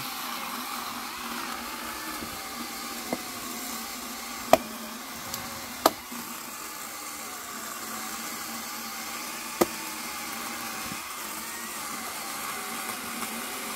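Electric chainsaw running steadily as it cuts firewood logs, its pitch wavering slightly under load. A few sharp knocks stand out, the loudest about four and a half, six and nine and a half seconds in.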